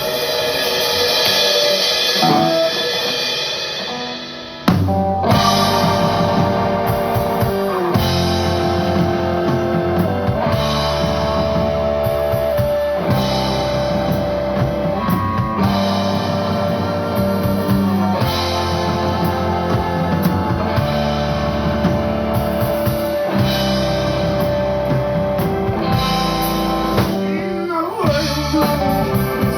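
Rock band playing live: a swelling intro for the first few seconds, then drums, bass and electric guitar come in together on a hard hit and the band plays on at a steady level.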